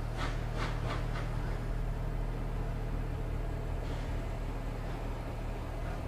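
Heritage passenger train pulling slowly out of a platform, the carriages rolling past with a steady low hum. Four short hissy bursts come in quick succession right at the start, with a few fainter ones later.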